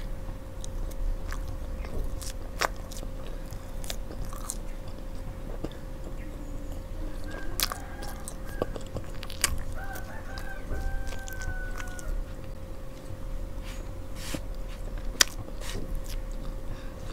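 Close-miked chewing and mouth sounds of someone eating soft marshmallows, with scattered small wet clicks. A rooster crows faintly in the background twice near the middle, over a steady low hum.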